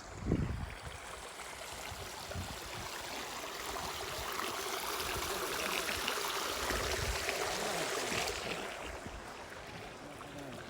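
Rushing water of a stream, swelling louder over a few seconds and then fading again. A low thump sounds right at the start.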